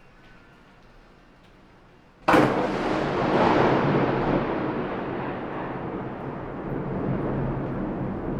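Faint steady rain, then about two seconds in a sudden thunderclap that breaks into a long thunder rumble, slowly fading.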